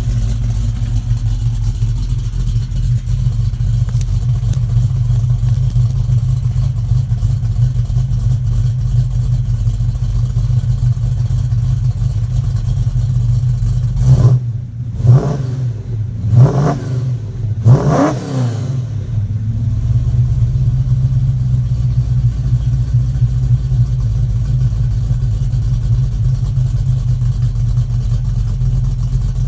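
Cammed Mopar 318 V8 with headers idling with a lumpy, lopey beat from its aggressive camshaft while still cold. About halfway through it is blipped three times in quick succession, each rev rising and falling back, then it settles back to idle.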